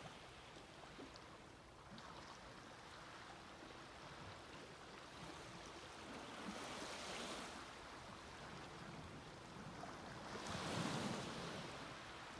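Small sea waves washing up on a sandy beach, a soft steady wash with two waves breaking, the second and louder one near the end.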